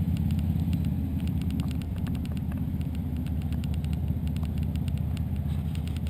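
Wind buffeting the camera's microphone: a steady low rumble with a faint crackle.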